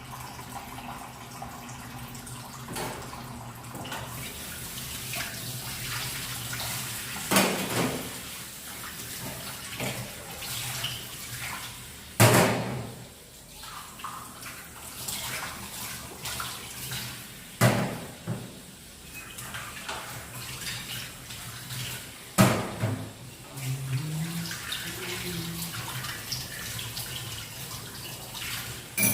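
Water running from a tap into a sink, broken by four sharp knocks about five seconds apart.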